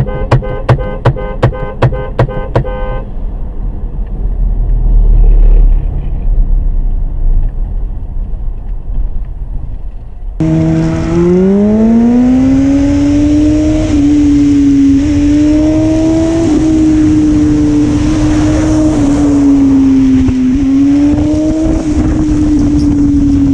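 Car horn blasted in rapid short beeps, then a low road rumble. Suddenly a vehicle engine takes over, revving up and holding high revs with small surges, over steady road and wind noise.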